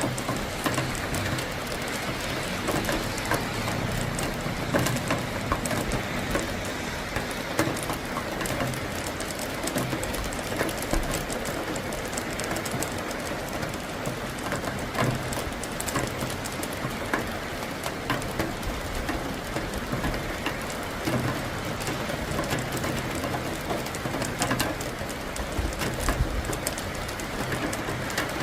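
Steady heavy rain during a thunderstorm, a dense hiss with many individual drops ticking close by. A low rumble comes and goes underneath.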